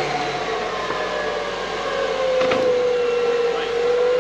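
Electric winch motor whining under load as it pulls a Jeep up the trail, one steady tone that firms up and gets louder about halfway through, with a short click near the middle.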